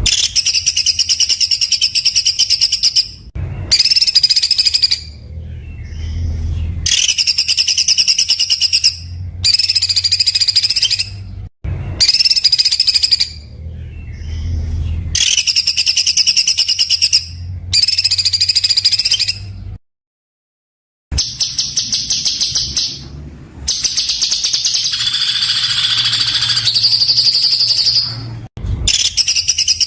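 A songbird's masteran song: repeated bursts of rough, very rapid-fire notes ("tembakan kasar"), each a second or a few seconds long, with short pauses between them. The recording drops out to silence for about a second near the middle.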